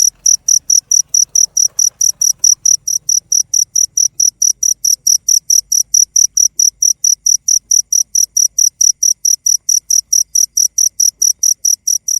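Cricket chirping in a steady, even rhythm of high-pitched pulses, about four to five a second.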